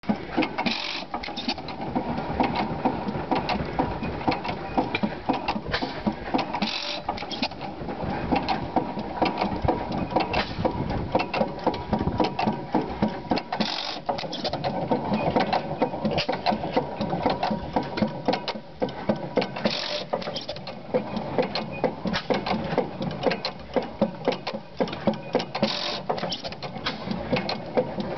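10 hp Stover stationary engine running, with a fast, steady mechanical clatter and a brief louder burst about every six seconds.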